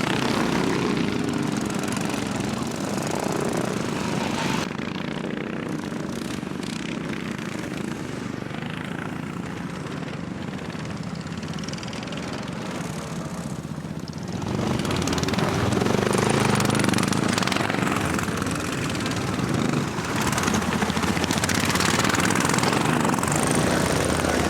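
Racing lawnmower engines running hard on the circuit, a buzzing, propeller-like drone. It eases off about five seconds in and grows louder again from about fourteen seconds in.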